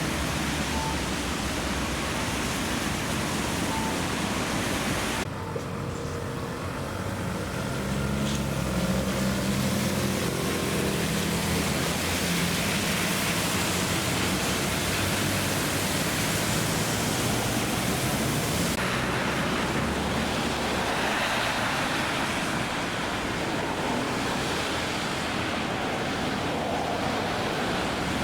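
Steady hiss of rain, with vehicle noise on a wet road; a low engine hum comes through between about 5 and 12 seconds in.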